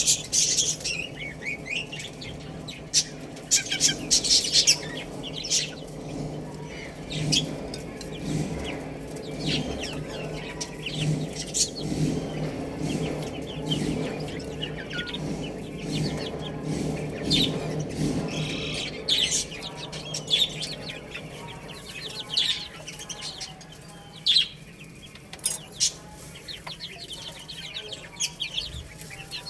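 Baby chicks peeping, many short high chirps one after another. A lower chicken clucking pulses underneath from about six seconds in until near nineteen seconds.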